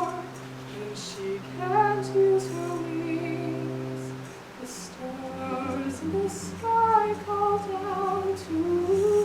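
A woman singing a slow melody over instrumental accompaniment, with steady held low notes under the voice for the first four seconds or so.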